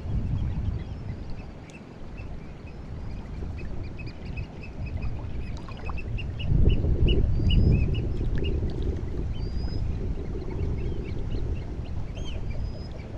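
Sea water washing and lapping on the shore on the incoming tide, swelling about six seconds in, with many short bird calls and chirps over it.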